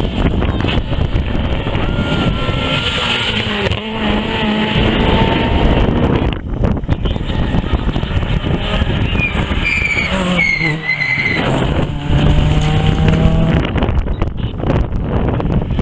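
Rally car engines running at high revs as cars pass, the pitch climbing and dropping repeatedly with gear changes and lifts off the throttle, with sharp crackles in between.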